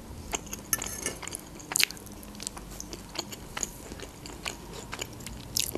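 Close-miked chewing of dolma (stuffed vegetables with minced meat): scattered soft mouth clicks and smacks, one louder click a little under two seconds in.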